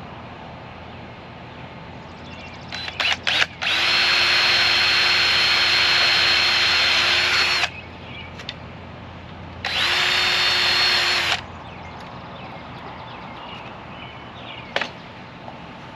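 Power drill boring holes through three stacked sheet-metal downspout straps at once. There are a few short trigger blips, then a steady whining run of about four seconds, a pause, and a second shorter run.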